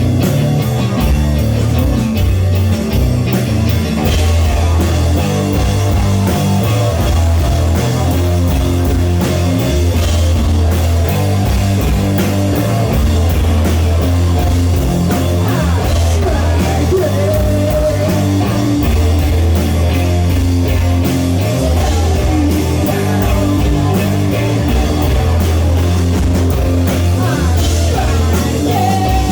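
Live rock band playing loudly, with guitar over a heavy, steady low bass and a constant beat.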